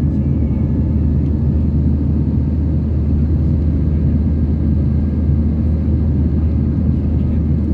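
Airbus A320 heard from inside the cabin during takeoff: a loud, steady low rumble of the engines and airflow that holds even throughout.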